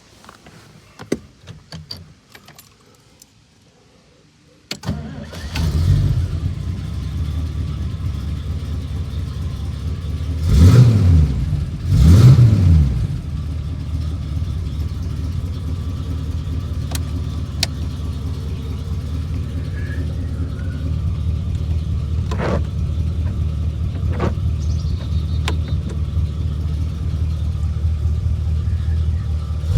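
A 1959 Studebaker Lark's supercharged Avanti R2 289 V8 cold-starts about five seconds in, after a few faint clicks. It is revved twice soon after, then settles into a steady idle.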